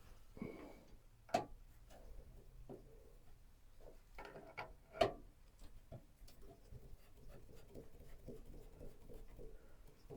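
Small clicks, ticks and knocks of PC parts being handled and fitted into a case, with two sharper knocks, one about a second and a half in and one about five seconds in.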